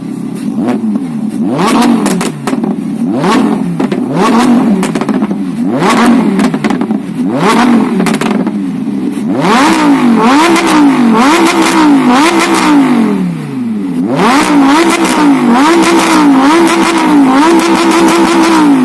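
Lamborghini Huracán's V10 engine being revved repeatedly in quick blips from idle through its exhaust, with sharp cracks. From about halfway in, each rev is held briefly at the top before dropping back.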